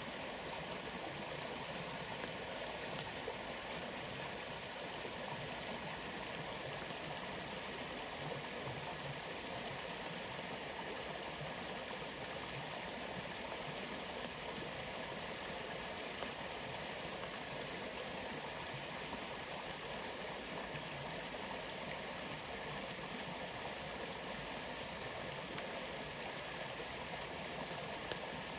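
Steady rushing of a waterfall or stream, an even wash of falling water.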